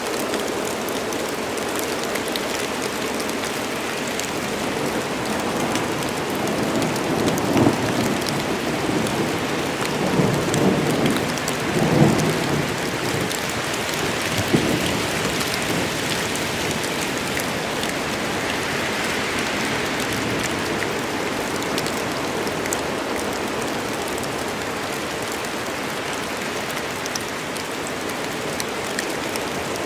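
Steady rain falling on forest foliage, with a low rumble of thunder swelling and fading around the middle.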